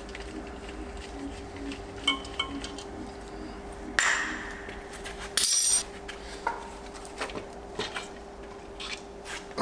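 Metal tools and engine parts clinking and clattering, with a short loud hiss about four seconds in and a louder half-second hiss about a second and a half later, over a steady faint hum.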